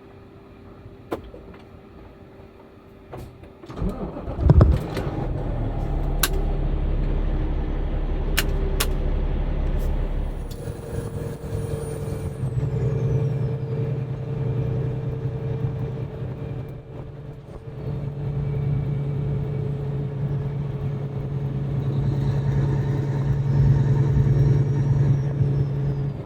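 Semi-truck diesel engine starting about four seconds in, then running steadily as the truck gets under way, its note dipping and changing a few times.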